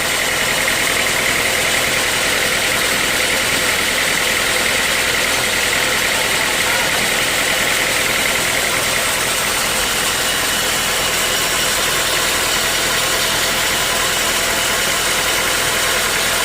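Sawmill machinery running steadily: a loud, unbroken mechanical drone with a higher whine in the first half that fades after about nine seconds.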